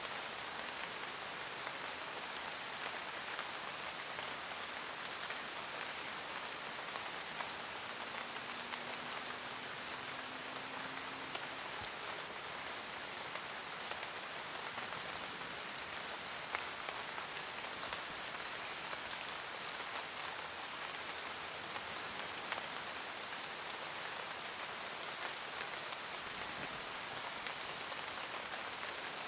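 Steady forest rain: an even hiss of rain falling on leaves, dotted with scattered individual drop ticks.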